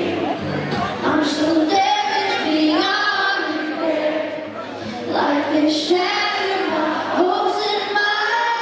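Live concert singing: a woman's voice singing long, held notes over the band.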